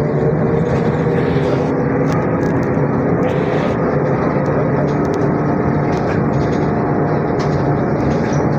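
ZiU-682G trolleybus on the move, heard from inside: a steady electric traction-motor hum over road and body rumble. Two short hisses come about a second and three seconds in.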